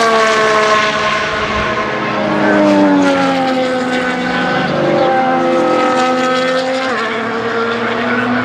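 2025 Formula 1 cars' 1.6-litre turbo-hybrid V6 power units passing at speed, several engine notes overlapping. Each note falls in pitch as a car goes by, and the pitch drops in steps a few times as the cars change gear.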